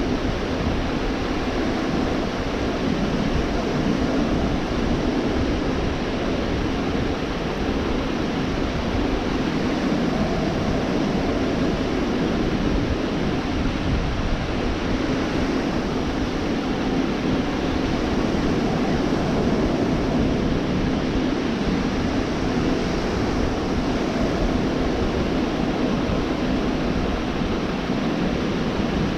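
Gulf of Mexico surf washing steadily onto the beach, a continuous rush of waves that swells and eases slightly, with a low rumble of wind on the microphone.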